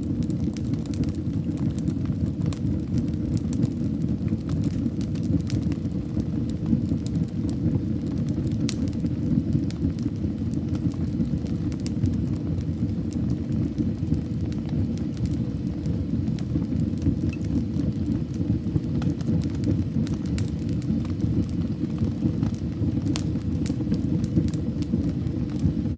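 Fire burning in a fireplace: a steady low rumble of flames with many scattered sharp crackles and pops.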